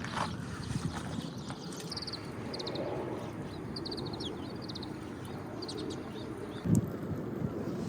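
A small bird gives two quick bursts of rapid high chirps over a steady low background rumble. One dull thump comes near the end.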